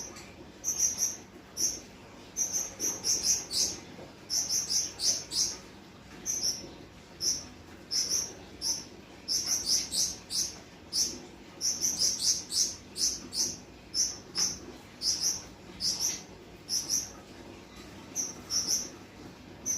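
Gouldian finches calling with short, high chirps, often several in a quick cluster, repeated every second or so.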